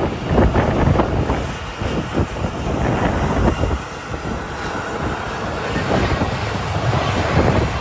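Wind buffeting the microphone in gusts, with a deep rumble and a faint steady whine underneath.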